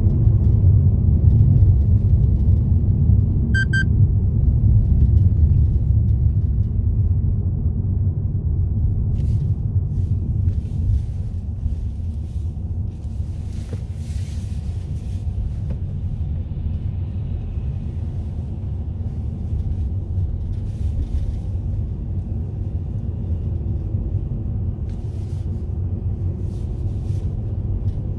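A car driving, with a steady low rumble of road and engine noise that eases slightly after the first several seconds. A brief high beep sounds about four seconds in.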